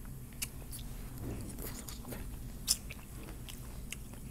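A person chewing a mouthful of chicken and noodles from chicken noodle soup, with scattered short clicks and smacks, the sharpest about two and a half seconds in.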